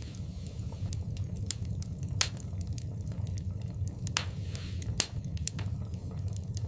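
Wood fire crackling in a fireplace: a low steady rumble of the flames with irregular sharp pops and snaps, two louder pops about two and five seconds in, and a brief hiss between them.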